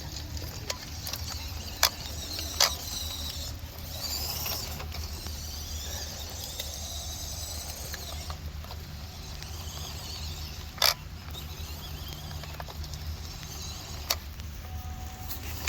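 Small electric motor and gearbox of a WPL C24 RC crawler whining as it drives, the pitch wavering, with a few sharp clicks from the truck. The owner suspects its battery is running low.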